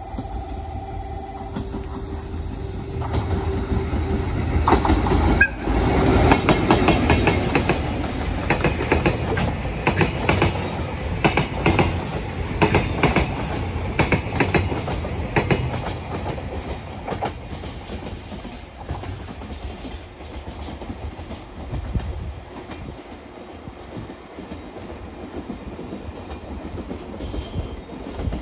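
Freight train hauled by a JR Freight EF81 electric locomotive passing close by. The rumble grows until the locomotive goes past about five seconds in, then a long string of container wagons clatters over the rail joints in a steady rhythm. The sound slowly fades as the end of the train moves away.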